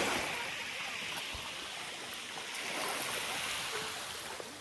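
Small waves washing up a sandy beach: a surge of hissing wash at the start that eases off, then a second, softer swell about three seconds in.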